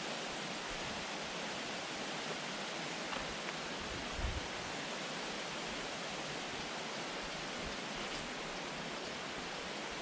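Steady, even rushing hiss with a brief low thump about four seconds in.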